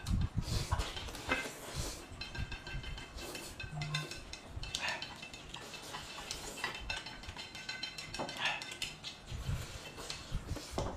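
Someone eating, with irregular chewing and mouth smacks and now and then a clink of dishes or cutlery.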